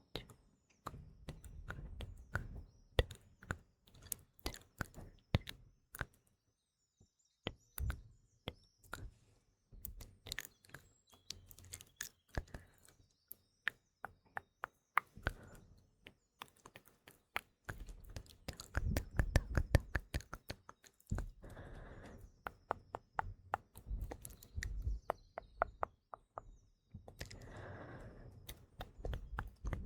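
Close-miked ASMR mouth sounds: wet clicks and smacks in quick, irregular succession, with faint birdsong chirping behind them.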